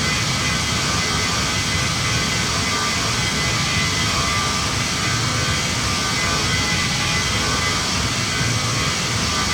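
Boeing 737 MAX 9 jet engines (CFM LEAP-1B) running steadily, heard from inside the cabin: a constant rush of air with several high, steady whining tones over it.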